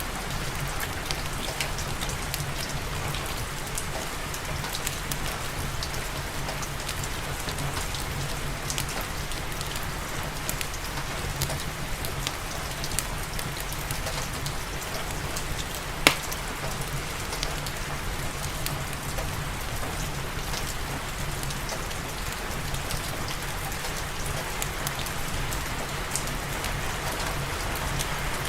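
Steady rain mixed with the small crackles of a wood fire in a fireplace, with one sharp pop about halfway through.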